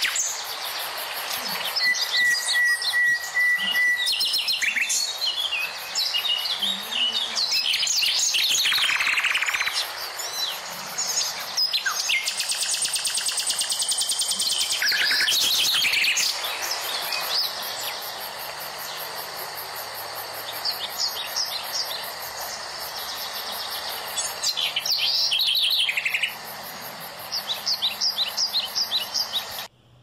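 Birds chirping and singing: many overlapping chirps, trills and whistled notes, cutting off abruptly near the end.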